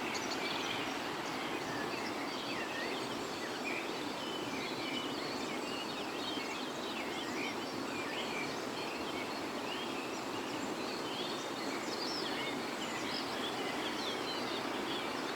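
Dawn chorus: many birds chirping and trilling at once, their calls overlapping throughout, over a steady background rush.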